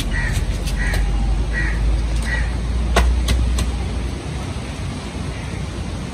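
A bird calling four times at an even pace, then three sharp clicks about three seconds in, over a steady low rumble.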